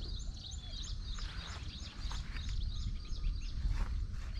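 Small birds chirping in quick repeated high calls over a steady low rumble of outdoor background noise.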